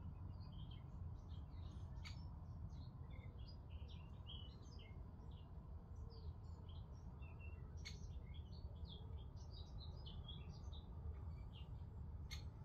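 Small birds chirping faintly in many short, high, scattered notes, over a steady low rumble. Three sharp clicks come through it, spread across the stretch.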